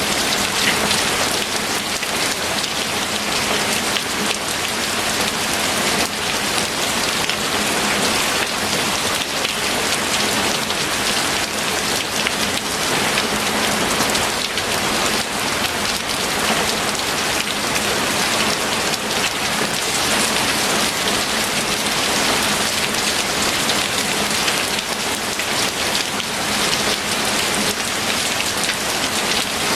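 Steady heavy rain falling and pattering on surfaces, a dense, even hiss of countless drops that keeps the same strength throughout.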